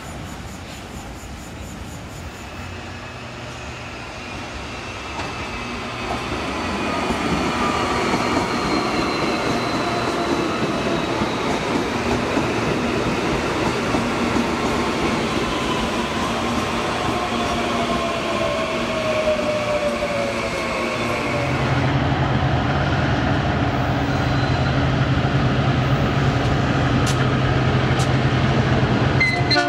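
Electric commuter train rolling through a curved station, its steel wheels rumbling on the rails with long drawn-out flange squeals and a falling screech. About two-thirds in, a steady low drone takes over as a lash-up of diesel-electric freight locomotives approaches.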